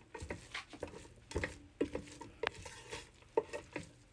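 A utensil stirring in a cooker pot, with irregular light knocks and scrapes against the pot.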